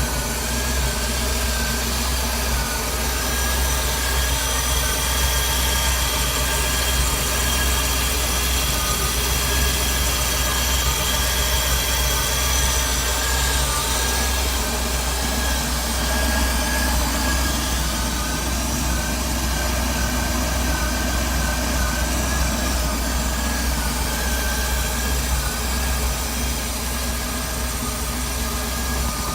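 OMC Cobra 5.7-litre V8 sterndrive engine running steadily, a low even rumble with a thin high whine over it that wavers slightly.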